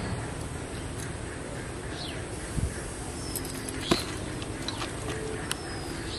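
Birds calling now and then in short falling chirps over a steady outdoor hiss, with a few faint sharp clicks.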